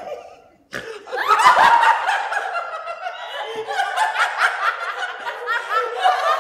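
Several high-pitched voices laughing together, starting about a second in after a brief pause.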